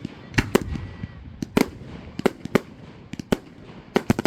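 Fireworks display: about a dozen sharp bangs of shells bursting, irregularly spaced and some in quick pairs, over a low rumble.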